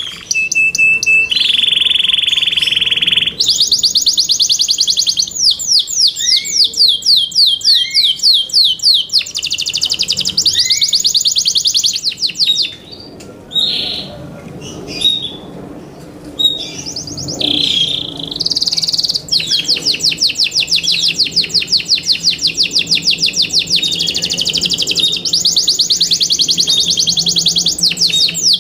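Yorkshire canary singing: long runs of fast, rapidly repeated trills, with a steady held whistle about a second and a half in and a quieter, broken passage in the middle before the trills resume.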